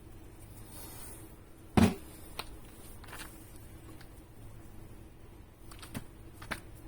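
Handling noises: one sharp knock about two seconds in, then a few lighter clicks and taps, over a faint steady hum.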